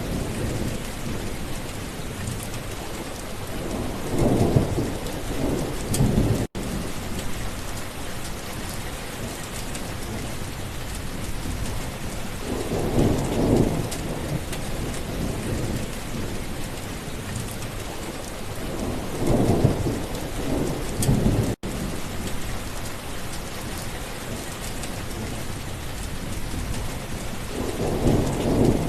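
Steady rain falling, with thunder rumbling four times in slow swells. The sound cuts out completely for an instant twice.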